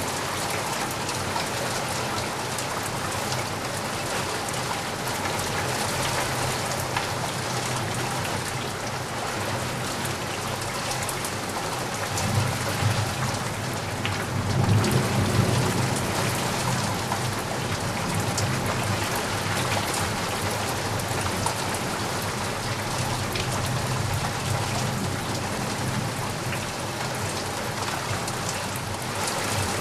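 Steady rain falling on a surface, with a low roll of thunder swelling and fading about halfway through.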